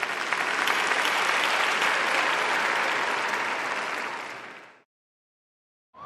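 A crowd applauding, dense steady clapping that swells in, holds, and fades away about five seconds in.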